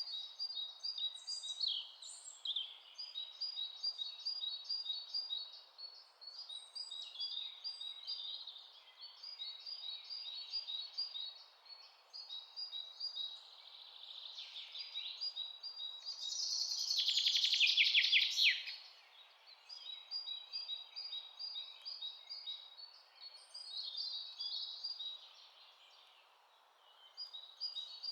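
Songbirds chirping and trilling in quick runs of short repeated notes, with one louder, faster trill about two-thirds of the way through, over a faint steady hiss.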